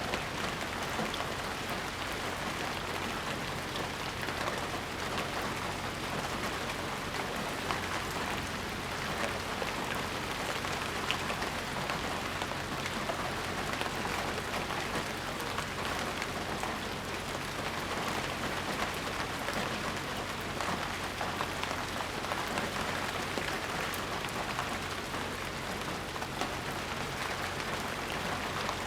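Steady rainstorm: dense rain falling and pattering on surfaces, an even hiss scattered with fine drop ticks, with no thunder.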